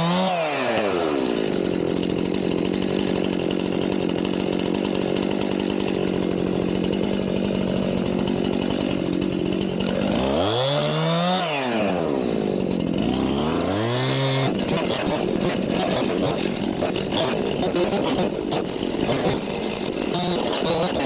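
Gasoline chainsaw running, revved up and back down once at the start and twice more about halfway through, idling steadily between. In the last third it runs with a noisier, more uneven sound.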